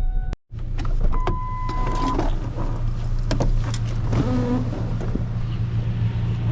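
A car's engine runs with a steady low hum, heard from inside the cabin, with scattered clicks and knocks. A short steady beep sounds about a second in. The sound cuts out completely for a moment near the start.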